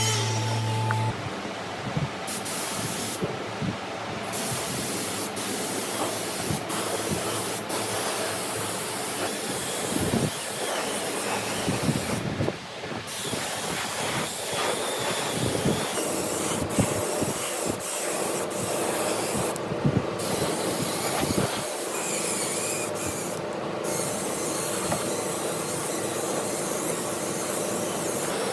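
Steady hissing and rubbing noise from wood-finishing work, with scattered sharp clicks.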